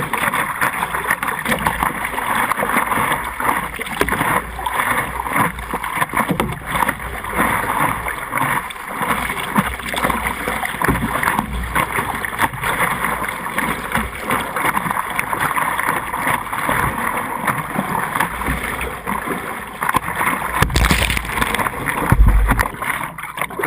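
A vehicle driving, with steady engine and road noise and a couple of low thumps near the end.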